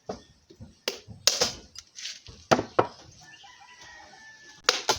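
Hard knocks, about seven at irregular intervals: a coconut shell being struck to crack it open.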